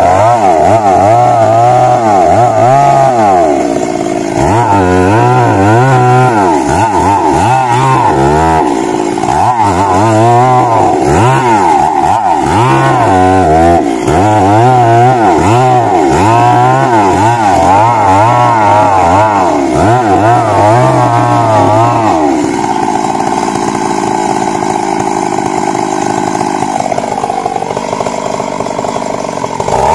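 Stihl MS 382 two-stroke chainsaw running at high revs, cutting into wood, its pitch wavering up and down under load. About two-thirds of the way through, the engine note turns steadier and a little quieter.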